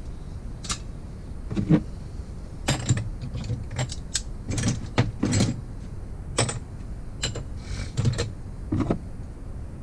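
Metal hand tools and small engine parts clinking and knocking, irregularly and many times over, as the engine is worked on by hand.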